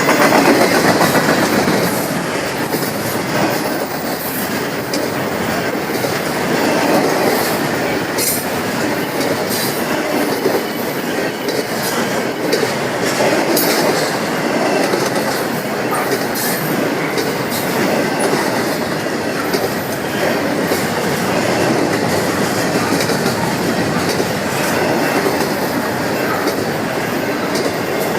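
BNSF intermodal freight train's cars rolling past, a steady rumble of steel wheels with repeated clicks over the rail joints.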